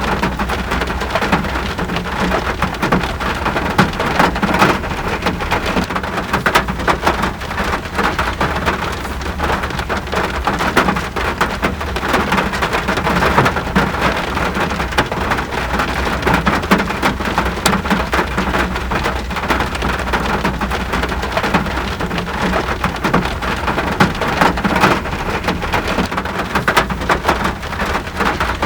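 Steady rain falling, a dense even patter of countless drops on surfaces.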